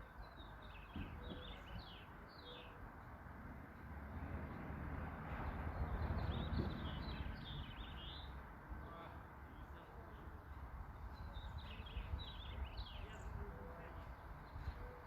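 Small songbirds chirping in repeated clusters of short, high, downward-sweeping notes, over a low background rumble that swells in the middle.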